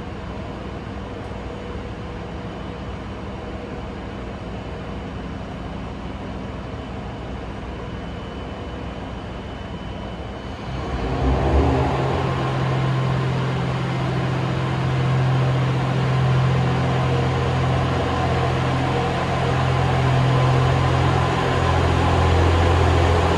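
Train at a station platform: a steady machinery hum with several fixed tones, then about 11 seconds in a louder, low drone from the train starts suddenly and builds a little, as if it is powering up to move.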